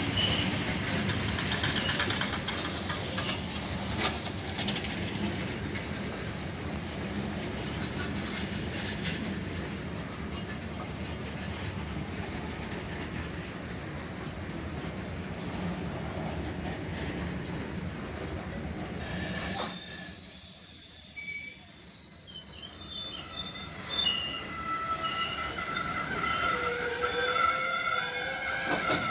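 Long freight train of covered boxcars rolling past on the track, a dense rumble and rattle of wheels over the rails. About two-thirds of the way through, the low rumble drops away and high steel-wheel squeals take over: one steady high squeal, joined near the end by wavering lower squeals.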